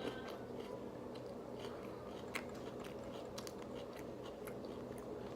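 Close-up chewing and biting of a rice-paper-wrapped fresh roll with cucumber and lettuce: scattered small crunches and wet mouth clicks. A steady low hum runs underneath.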